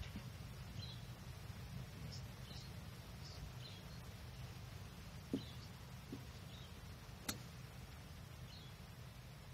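A small bird chirping over and over, short high falling calls about once a second, over a steady low rumble of outdoor wind noise. A dull thump comes about five seconds in and a sharp click about two seconds later.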